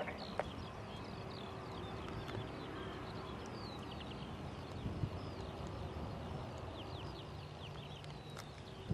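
Birds chirping outdoors: many quick, downward-sliding high notes over a steady low background hum.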